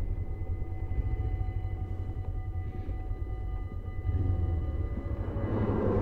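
Suzuki GS500E's air-cooled parallel-twin engine running on the move, under a steady low rumble, getting louder about five and a half seconds in.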